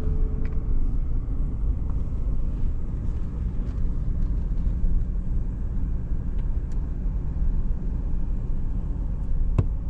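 Steady low rumble of a car driving, heard from inside the cabin, with one sharp click near the end.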